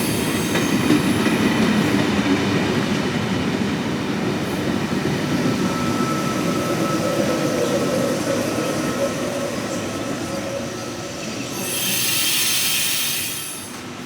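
Electric passenger train running through the station, its wheels rumbling and squealing on the rails as the sound slowly fades. Near the end comes a brief burst of hissing.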